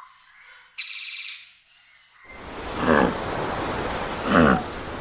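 Animal calls: a short high buzzy trill about a second in, then, after an abrupt change to a louder clip with steady background hiss, two short calls that fall steeply in pitch.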